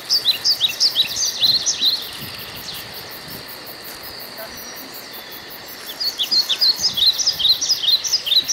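Songbird singing two quick phrases of many short, high chirping notes, each about two seconds long: one at the start and another about six seconds in, over a steady high hiss.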